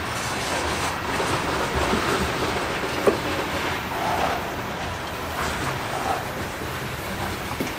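Train cars rolling past on the track, the wheels clattering steadily over the rails, with a sharp clank about three seconds in.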